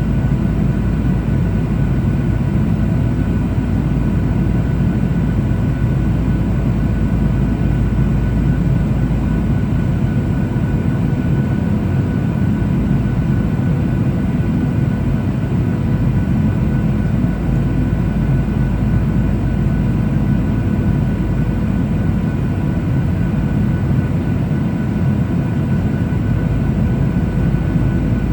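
Steady cabin noise inside a Boeing 737-800 airliner in flight: a constant low rumble of airflow and CFM56 turbofan engines, with a faint steady engine hum of several fixed tones above it.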